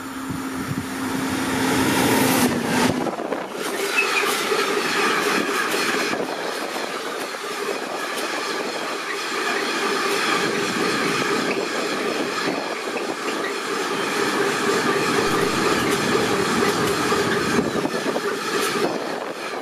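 A train passing close by on the station tracks. There is a steady hum during the first three seconds, then about sixteen seconds of continuous wheel-on-rail rolling noise with steady ringing tones and repeated clicks over the rail joints.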